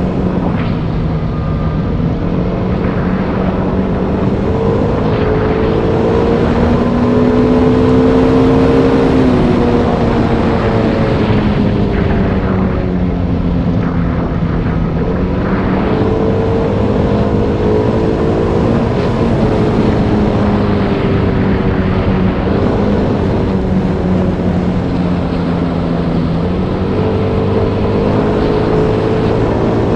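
Motorbike engine running under way, its pitch rising and falling slowly several times as the throttle and speed change, over a steady rush of noise.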